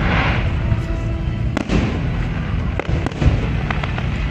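Fireworks going off: a crackling hiss at the start, then scattered sharp bangs and pops over a continuous low rumble.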